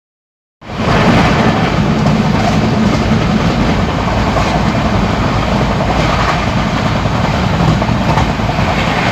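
Express train running at speed, a loud, steady rushing rumble of wheels on rails, cutting in suddenly about half a second in.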